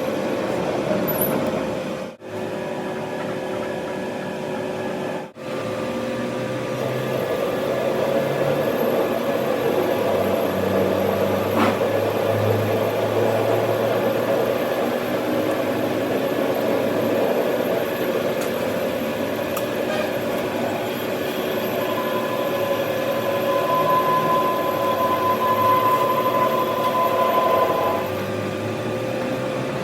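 Steady machine hum with a constant drone, cut off sharply twice near the start. A higher steady whine joins in for several seconds in the second half.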